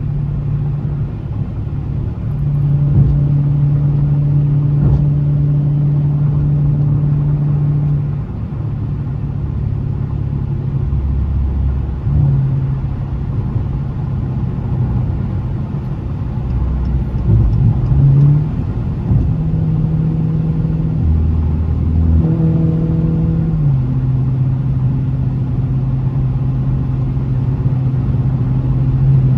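Dodge Challenger Scat Pack's 392 (6.4-litre) HEMI V8 running under way: a steady low drone whose pitch steps up and down several times as the revs change.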